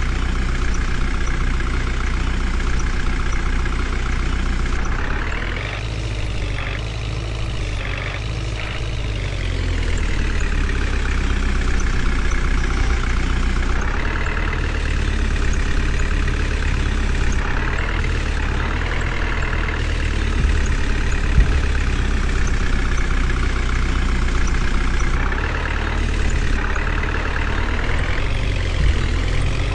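Heavy diesel vehicle engine running continuously, its speed rising and falling several times, as in working under load.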